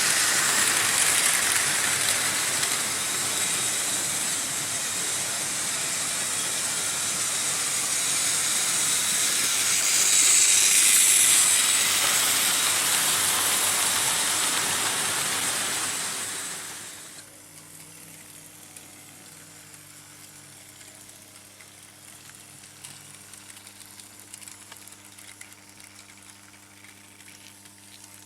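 Märklin H0 model trains running on metal M-track: a steady rushing, hissing rolling noise that swells to its loudest about 10 to 12 seconds in as a train passes close. It then drops off sharply about 17 seconds in, leaving only a faint steady hum.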